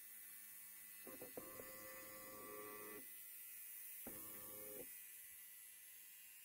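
Faint electric hair clipper buzzing in two short runs, one of about two seconds and then a briefer one, over a low steady hum.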